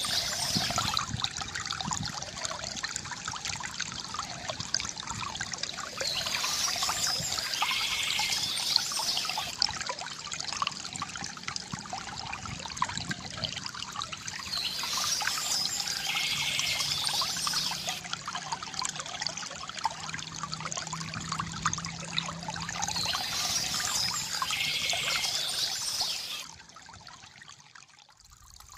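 Stream water trickling and splashing steadily, with short bursts of birdsong recurring about every eight seconds. Near the end the sound drops to much quieter.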